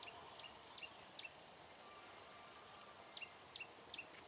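A bird calling in two quick runs of about four short, high chirps, each dropping sharply in pitch, over faint background hiss.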